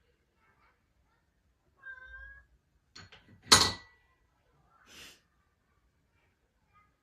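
A domestic cat meows once, briefly, then a few light knocks and a sharp, loud clatter with a short ringing tone follow, and a brief hiss-like rush near the end.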